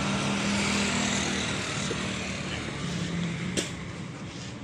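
A motor vehicle's engine running steadily and slowly fading away, typical of a vehicle passing by. A single sharp click comes about three and a half seconds in.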